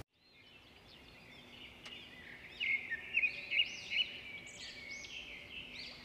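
Birds chirping, a quick run of short, arching chirps that starts about two and a half seconds in, over faint forest ambience that fades in from silence.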